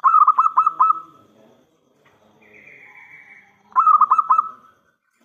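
Zebra dove (perkutut) cooing: two loud phrases of about five quick, rolling notes each, one at the start and another just before the end.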